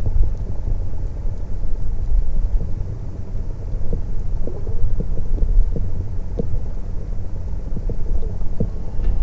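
Boat motor running under way, a steady low rumble with wind on the microphone and a few faint knocks.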